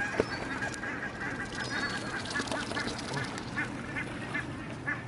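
Barnacle geese calling, many short high calls overlapping in a quick, continuous chatter.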